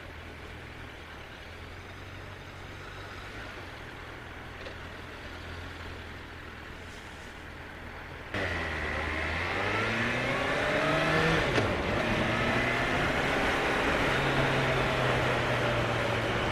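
Suzuki GSX1250 motorcycle's inline-four engine running low and steady, then about halfway through it revs up as the bike pulls away. Its pitch rises, dips sharply once at a gear change, then settles into a steady pull.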